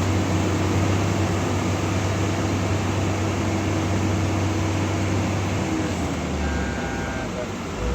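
Heavy truck's diesel engine running hard under load on a steep climb. It is a steady drone that changes about six seconds in to a deeper rumble, with a brief thin high tone.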